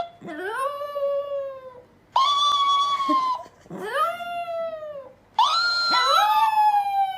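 A pet animal howling or yowling in four long drawn-out calls. Each call rises quickly and then slides slowly down in pitch. Near the end a second voice overlaps the last call.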